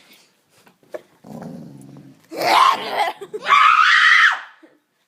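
A dog growls low for about a second, then come two loud, high-pitched screams of about a second each.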